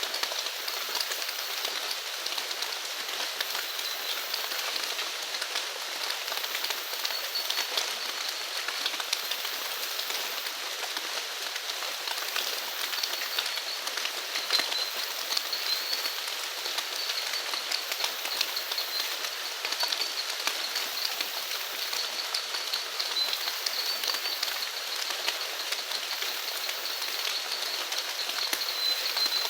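Steady rain falling, a dense hiss with many small drops pattering. Beneath it runs a thin, high, wavering trill from an animal.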